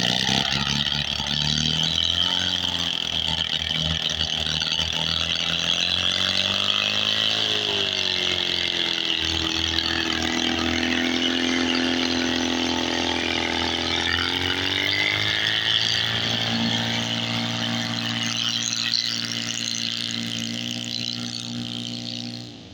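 Homebuilt two-cylinder engine on a test run, its pitch rising and falling several times as the speed changes, then falling away abruptly at the very end.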